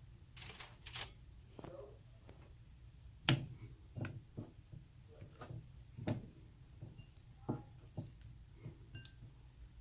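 Irregular light knocks and clinks of kitchen dishes and a pan being handled while chicken pieces are breaded by hand, the loudest knock about a third of the way in.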